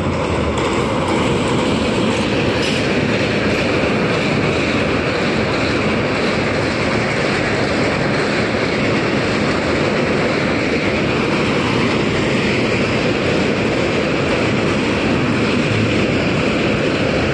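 Express train's passenger coaches rolling past over a steel girder bridge: a steady, loud running noise of wheels on rails that holds even throughout.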